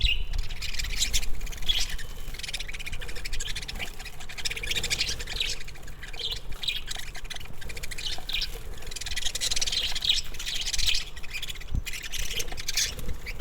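Pet lovebirds chirping and squawking nonstop, many shrill calls overlapping.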